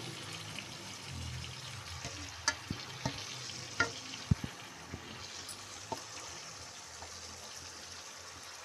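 Marinated chicken pieces sizzling in oil and butter in a frying pan, a steady hiss. A few short clicks and knocks come between about two and six seconds in, as the pieces are moved and laid out by hand.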